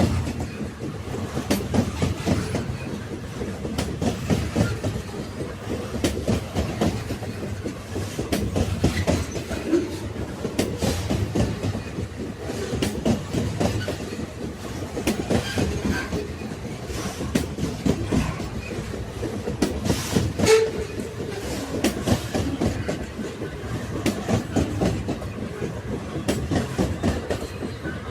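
Railway carriages rolling along the track, a steady low rumble with repeated clickety-clack knocks of the wheels over the rail joints and a sharper knock about twenty seconds in.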